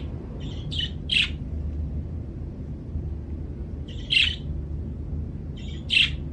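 Budgerigar chirping in short, sharp high calls: a quick run of three about half a second in, a pair about four seconds in, and another pair near the end, over a steady low hum.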